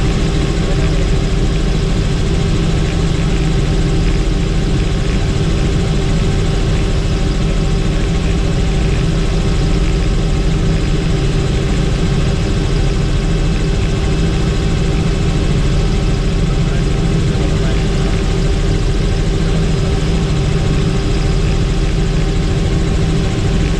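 Helicopter in flight, its engine and rotor noise a steady, unchanging drone.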